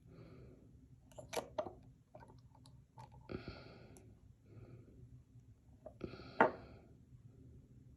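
Small clicks and handling sounds from a serum dropper bottle being opened and worked. There are two short squeaks, one about three seconds in and one about six seconds in.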